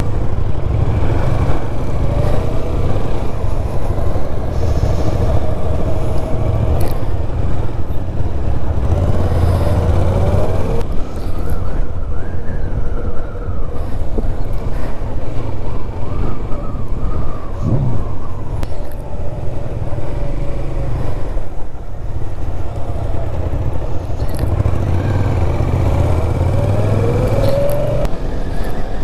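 Motorcycle engine running while riding, under heavy wind rumble on the microphone; the engine pitch rises and falls several times as it is throttled up and eased off.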